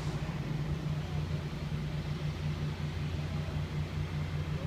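Cummins ISX diesel engine of a Kenworth T660 highway tractor idling with a steady low hum.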